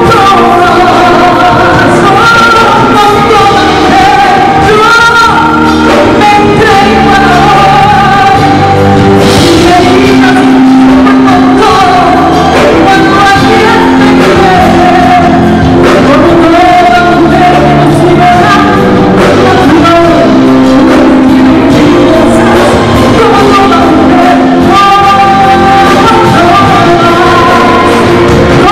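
A song performed live: singing over instrumental accompaniment.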